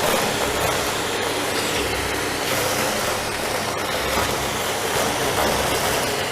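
Philips vacuum cleaner running steadily, with a couple of faint clicks.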